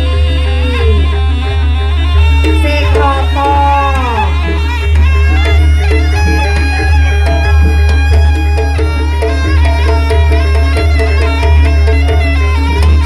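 Jaranan Buto music: a reedy shawm-like wind instrument plays a melody with pitch bends and slides over drums and metal percussion, with a steady low hum underneath.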